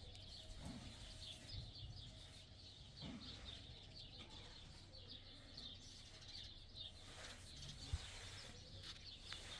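Faint chirping of small birds: many short, high calls repeating throughout, with one sharp click about eight seconds in.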